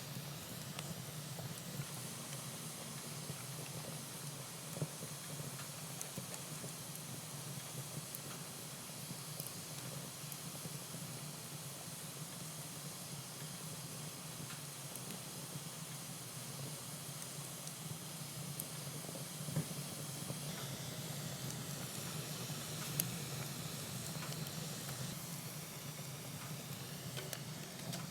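Wood fire in a fireplace burning a hollow twig, hissing steadily, with a few faint pops.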